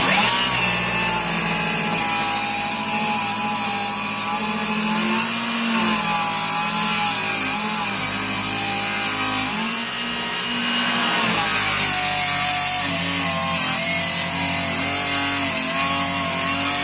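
Circular saw ripping a pressure-treated 2x4 lengthwise, the motor whining steadily under load and sagging in pitch and level briefly about five seconds in and again about ten seconds in.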